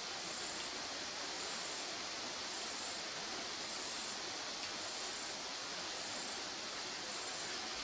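Wood fire burning steadily in a cone-shaped fire pit, an even hiss with a single faint crackle about halfway through. A faint high pulsing repeats about once a second in the background.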